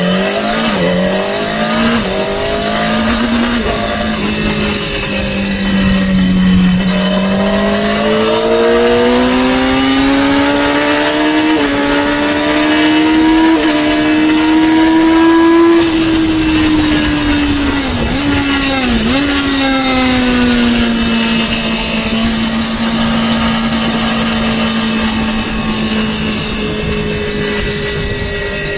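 Sport motorcycle engine heard from on board under hard acceleration. The pitch climbs through quick upshifts, then rises steadily for a long stretch in top gear. Two sharp dips come a little past halfway as the rider downshifts from sixth to fourth under braking, and after that it runs at a lower, even pitch.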